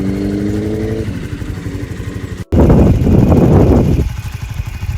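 Motorcycle engine running at steady revs, its note fading about a second in; after a sudden cut about two and a half seconds in, a loud rushing noise lasts about a second and a half before dropping back to a low engine rumble.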